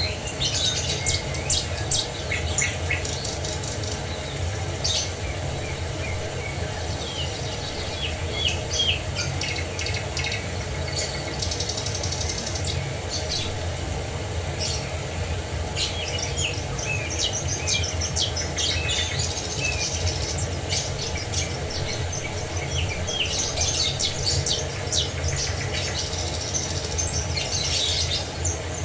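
Many small birds chirping and trilling, with quick high calls coming and going throughout, over a steady low rumble of falling water.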